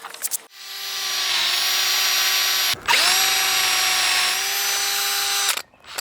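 Electric power tool motor running in two long runs: it runs steadily, stops briefly, then spins back up with a rising whine and cuts off suddenly near the end. A rapid clatter comes just before the motor starts.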